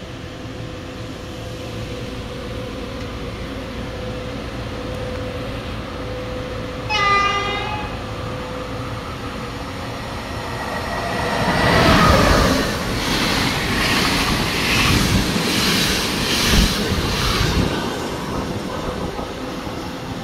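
Polish EP09 electric locomotive hauling an InterCity passenger train passing through a station at speed. A short horn blast sounds about seven seconds in. From about ten seconds on comes a loud rush of wheel and coach noise with a rhythmic clatter, which eases off near the end as the train pulls away.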